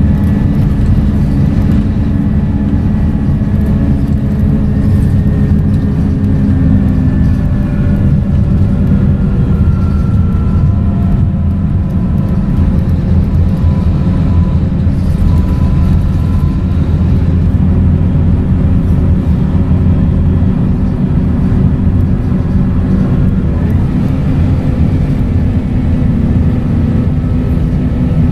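Scania K230UB single-deck bus under way: the diesel engine gives a steady low drone, and faint whining tones from the engine and ZF automatic driveline drift slowly up and down in pitch.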